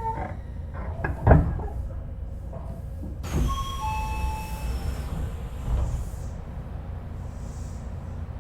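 Odakyu 3000-series electric train at a station stop: the sliding passenger doors work with sharp knocks and a sudden rush of air, and a short two-note descending chime sounds. A steady low rumble of the stationary train runs underneath.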